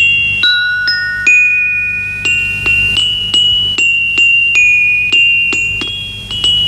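A small mallet-struck metal-bar instrument playing a slow, simple tune: single bright ringing notes one after another, a little over two a second.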